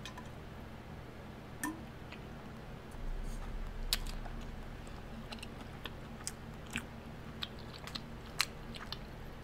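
A person chewing food with the mouth, with scattered short smacks and clicks.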